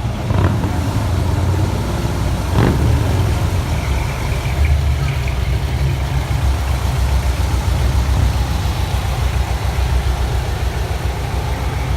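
Car engine idling with a steady low exhaust note, with two short sharp sounds in the first three seconds.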